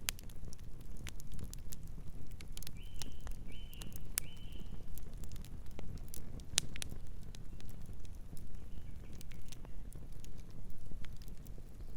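Campfire crackling: scattered sharp pops and snaps over a low steady rumble. A bird gives three short high notes about three seconds in, and fainter ones later.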